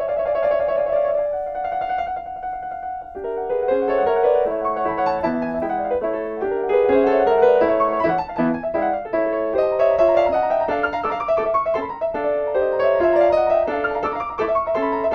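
Steinway B211 grand piano playing fast, light virtuoso passagework: a held, trilling figure in the first few seconds, then rapid runs of notes from about three seconds in.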